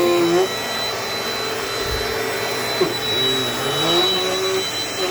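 Dirt Devil Dynamite Plus vacuum cleaner running steadily, its motor pitch dipping and recovering a few times as the suction is loaded. A single sharp tick comes about three seconds in.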